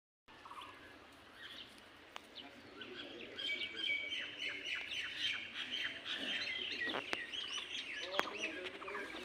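Many birds chirping in quick, short calls, faint at first and growing busier from about three seconds in.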